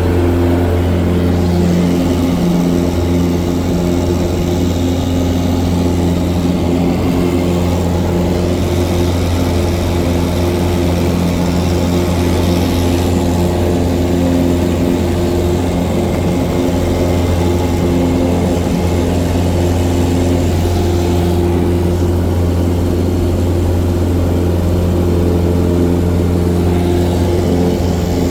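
Cessna 177 Cardinal's piston engine and propeller droning steadily at a constant power setting.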